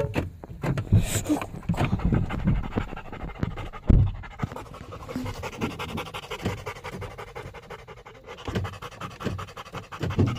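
Dog panting rapidly, with low knocks and a single louder thump about four seconds in.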